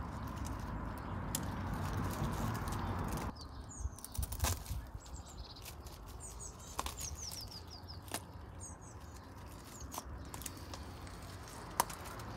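Small birds chirping in quick runs of short falling notes, with scattered light clicks and taps. A steady rushing noise fills the first three seconds and cuts off abruptly.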